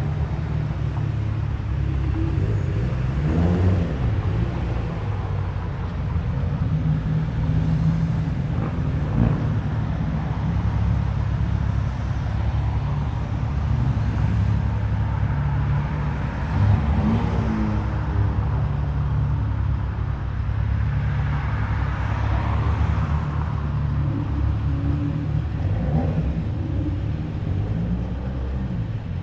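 Car engines running as cars roll by at low speed, a continuous low drone with a few louder passing swells.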